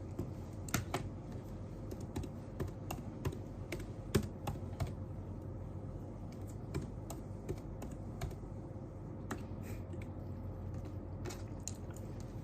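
Typing on a computer keyboard: irregular key clicks in quick bursts for the first few seconds, then sparser, over a low steady room hum.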